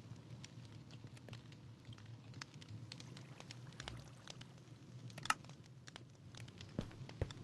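Wood campfire crackling: sparse, irregular small pops with one sharper snap about five seconds in, over a low steady hum.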